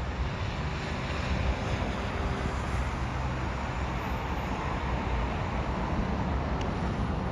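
Wind buffeting the microphone over a steady, even rumble on a railway station platform.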